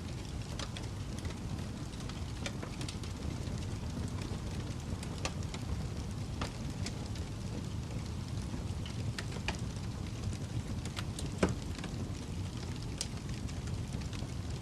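Wood fire crackling in a fireplace: irregular small pops and snaps over a steady low rumble of the flames, with one sharper pop near the end.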